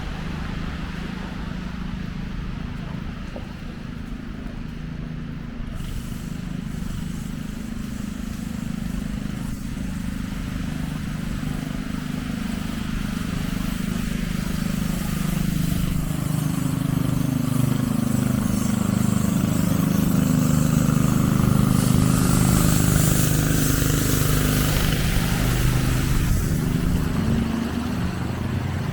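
Street traffic: a heavy vehicle's engine grows steadily louder, passes with a hiss of tyres about three-quarters of the way through, then eases off, over a constant low rumble of city traffic.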